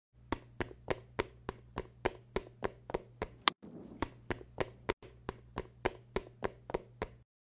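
A steady run of sharp taps, about three a second, over a low hum, with the strongest tap about halfway through. The sound drops out for an instant twice and stops shortly before the end.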